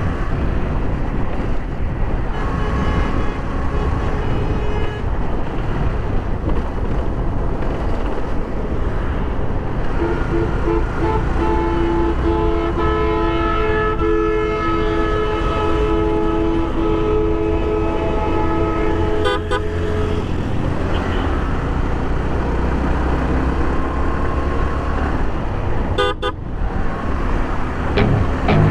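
Road traffic heard from a moving motorcycle: a steady low engine and wind rumble, with vehicle horns honking. There are shorter honks a few seconds in, then one long two-tone horn blast lasting about nine seconds in the middle.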